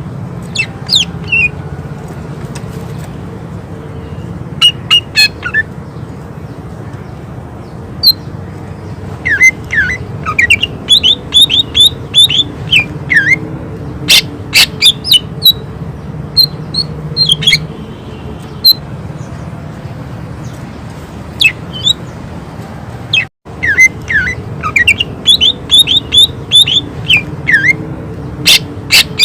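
Greater green leafbird (cucak ijo) singing: rapid runs of sharp whistled notes and chirps, many sweeping downward, in bursts of a few seconds separated by short pauses, over a steady low hum. The sound cuts out for an instant about two-thirds of the way through.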